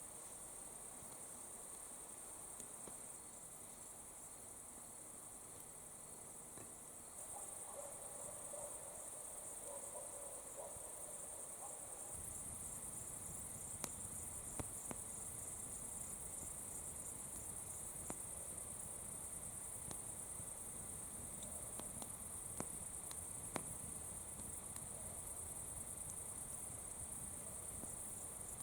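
Crickets chirring steadily, a continuous high-pitched trill, with a few faint sharp clicks in the second half.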